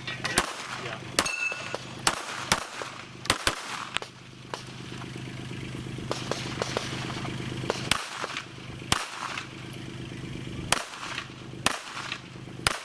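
Handgun shots fired on an IPSC stage, about a dozen sharp cracks at an uneven pace with a pause of a few seconds in the middle, over a steady low hum.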